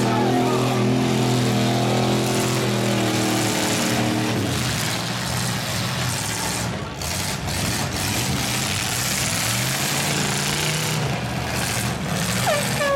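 Demolition derby trucks' engines running and revving. The engine note is clearest at the start and again in the second half, with a rougher, noisier stretch in the middle.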